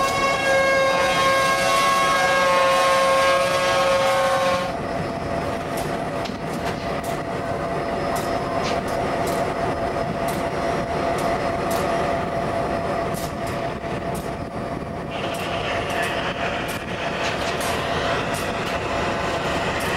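Diesel locomotive air horn sounding a steady multi-note chord as freight cars roll by; it stops abruptly about five seconds in. Then the steady rumble of freight cars rolling past, with wheels clicking sharply over rail joints.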